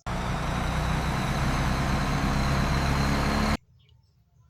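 Bus engine idling steadily, with a faint high whine over the low engine note. It starts abruptly and cuts off abruptly after about three and a half seconds.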